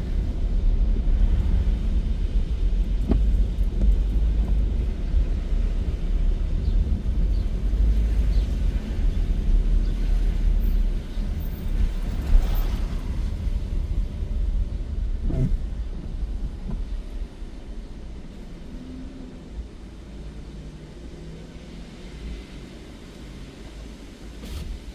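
Car driving, a steady low rumble of engine and road noise that turns much quieter about seventeen seconds in.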